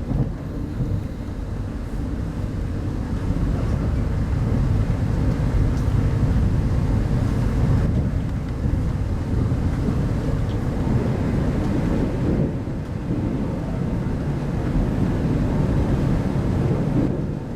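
Steady rumble of wheels on rail and running noise inside a 25T passenger coach of a moving intercity train, growing louder a few seconds in.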